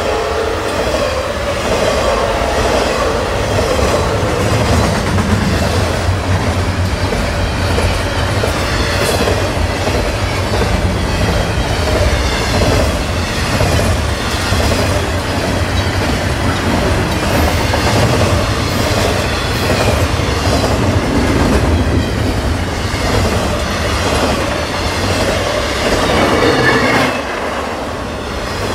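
Canadian National double-stack intermodal freight cars passing close by: a loud, steady rumble and clatter of steel wheels on the rails, easing off slightly near the end.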